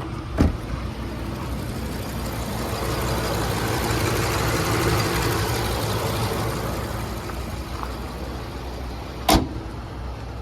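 The Ford F550's 6.8L V10 engine running. The sound swells louder through the middle and then eases back down. Two sharp knocks come through, one just after the start and one near the end.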